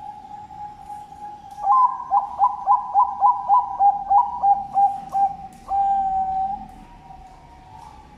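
Bangkok-type zebra dove (perkutut) cooing: a run of about a dozen quick, rolling coo notes, roughly three a second, ending in one longer drawn-out note. A faint steady tone runs underneath.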